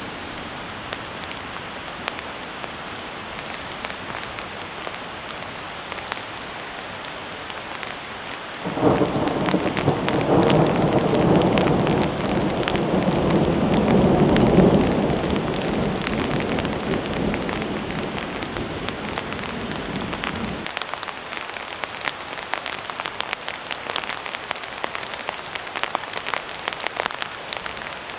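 Heavy rain pattering steadily, with the ticks of individual drops. About nine seconds in a long roll of thunder sets in, swells and rumbles for about twelve seconds, then ends suddenly.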